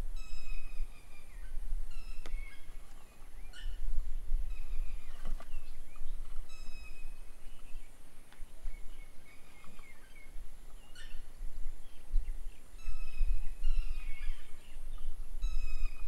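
Songbirds calling outdoors: short, clear, repeated calls that come and go throughout, over a low, gusting rumble.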